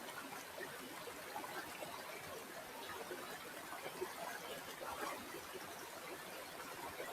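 Shallow river water flowing and trickling, with a steady hiss of small gurgles and splashes.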